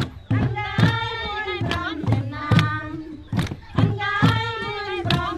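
A group of voices singing together, with sharp hand claps keeping a steady beat of about two a second.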